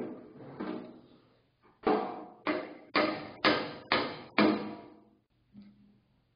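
A series of sharp, ringing strikes, about two a second through the middle, each dying away before the next.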